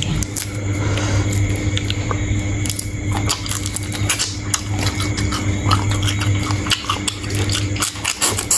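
Close-miked eating of sea shrimp: irregular crunching, cracking and wet chewing clicks, over a steady low hum.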